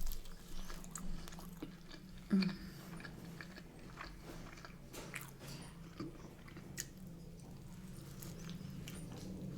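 Close-up mouth sounds of someone eating battered fish and chips: soft scattered clicks and small crunches of biting and chewing.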